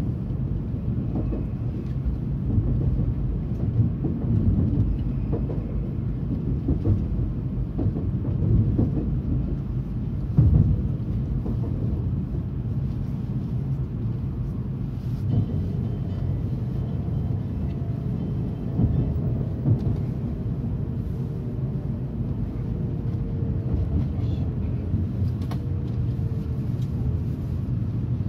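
Steady low rumble of a Tokaido Shinkansen train heard from inside the passenger car as it runs into its terminus. In the second half a faint whine falls in pitch as the train slows toward the platform.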